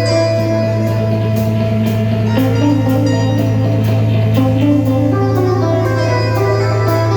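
A band playing live at a sound check, recorded on a phone: a plucked guitar melody over a steady low drone, with cymbal strikes about twice a second.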